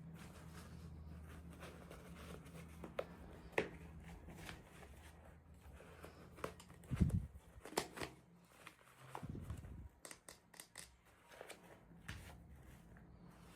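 Hands unpacking small items: scattered light clicks, taps and rustles of packaging, with a few soft thumps in the middle, over a faint low hum.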